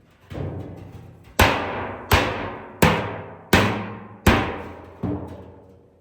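Heavy hammer blows on a steel oil drum, about six strikes at a steady pace of roughly one every 0.7 seconds. Each strike rings and fades before the next.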